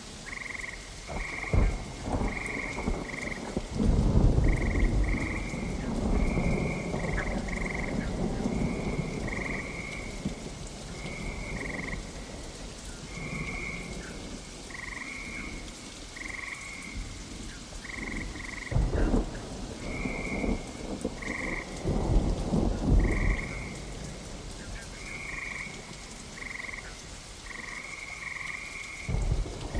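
Steady rain with thunder rumbling several times, and frogs calling throughout in short, quickly repeated high notes.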